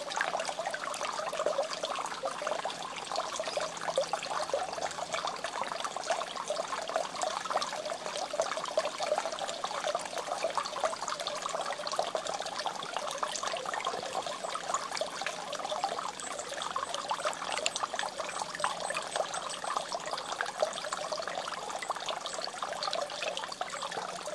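Water trickling and splashing steadily, in a continuous, unbroken run.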